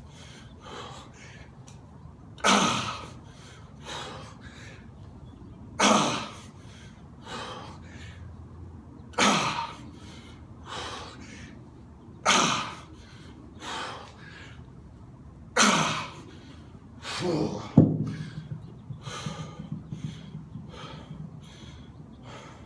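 A man breathing hard during a high-intensity exercise set: a loud, forceful breath about every three seconds, each followed by a softer one. Near the end there is a sharp knock, then quicker, ragged panting.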